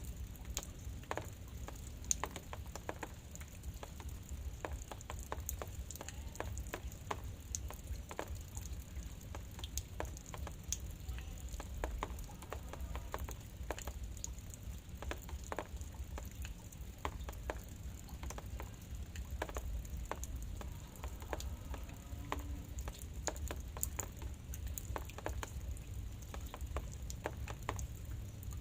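Light drizzle pattering, with many scattered drops ticking irregularly over a steady low rumble.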